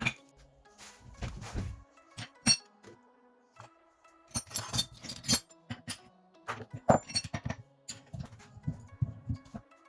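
Irregular clinks and knocks of small metal parts being handled and set down, over quiet background music.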